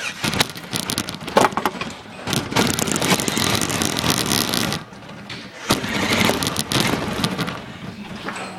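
Radio-controlled car driving, a dense, noisy rattle and scraping of wheels and chassis on the ground, picked up close by a device taped onto the car. The noise drops away briefly about five seconds in and then picks up again.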